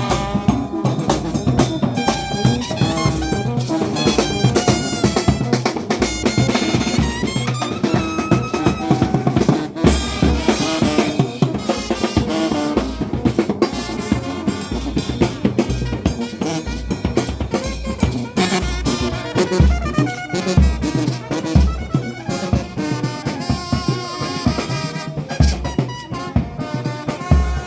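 Brass band playing with drums: brass instruments over a snare and bass drum beat.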